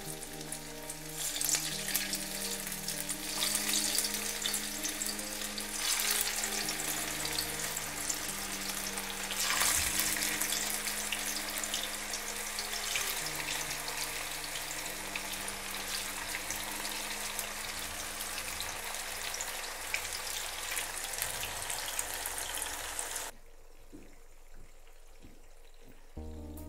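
Hot oil in a frying pan sizzling as tuna fish kababs are lowered in and fry, the sizzle swelling several times as more go in. It cuts off abruptly near the end.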